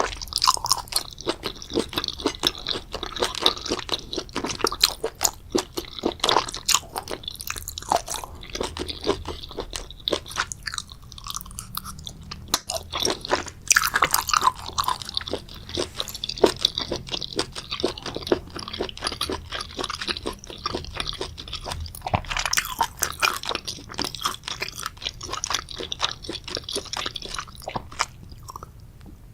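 Close-miked ASMR eating: a person chewing a spicy seafood boil with crisp crunches and a dense run of quick mouth clicks, easing briefly about a third of the way through before picking up again.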